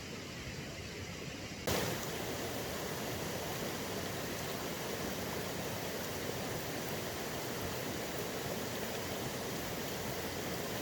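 Steady rush of a flowing river, coming in abruptly a little under two seconds in over a quieter steady hiss.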